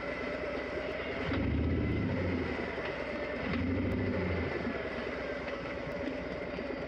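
Motorcycle engine running with a steady low rumble that swells twice, about one and a half and three and a half seconds in.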